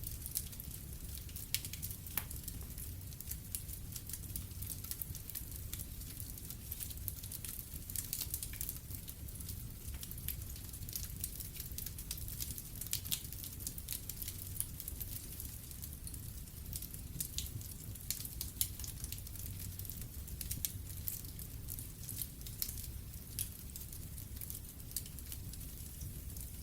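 Wood fire in a fireplace crackling, with frequent irregular sharp pops over a low steady rumble of the flames.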